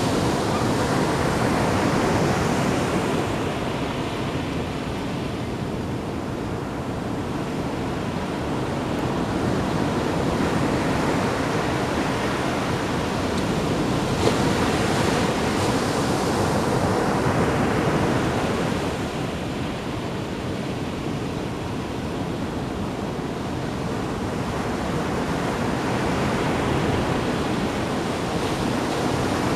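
Ocean waves splashing and washing in: a continuous rushing that swells and eases over several seconds at a time.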